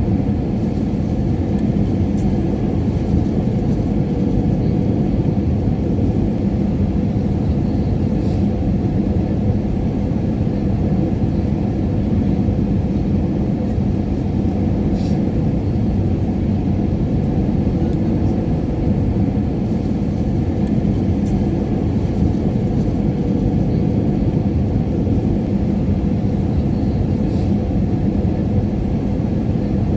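Airplane cabin noise: a steady low rumble of engines and airflow with a faint hum, unchanging throughout.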